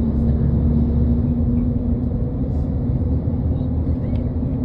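Steady low vehicle rumble with a faint even hum.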